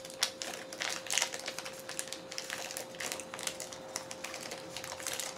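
Close-up chewing and mouth clicks from eating a soft chocolate-covered marshmallow candy: many small irregular clicks and rustles, over a faint steady hum.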